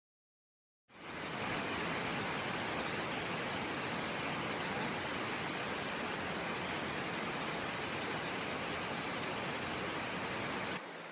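Steady rushing of water from a stream's small waterfall, cutting in after about a second of silence and dropping somewhat in level near the end.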